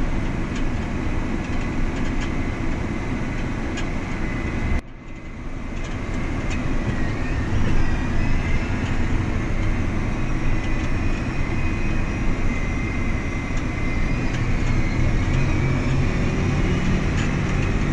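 Farm machine's diesel engine running steadily under way, with a faint steady whine above the engine note. About five seconds in the sound cuts out abruptly and then builds back up.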